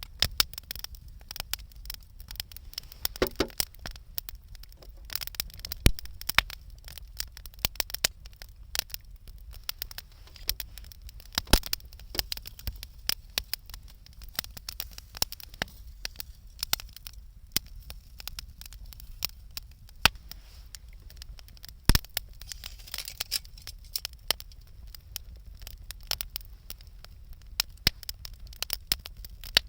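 Wood campfire crackling and popping: a dense, irregular patter of small snaps with a few sharper pops standing out.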